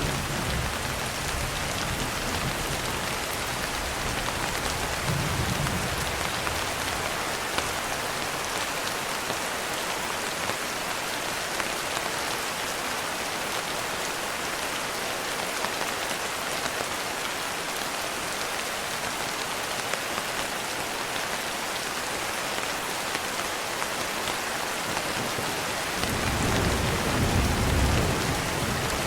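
Steady rain pattering. Low rolls of thunder rumble at the start, briefly again about five seconds in, and for the last few seconds.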